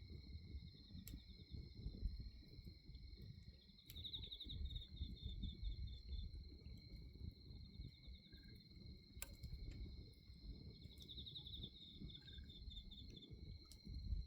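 Crickets chirping steadily, with two spells of rapid pulsed trilling, over the low, irregular crackle of a bonfire burning; a few sharp pops from the fire.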